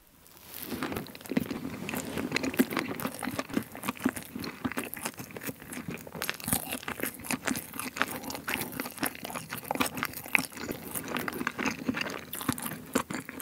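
Close-miked chewing of a mouthful of cake: a dense run of quick, wet mouth clicks and soft crunches that starts about half a second in and goes on steadily.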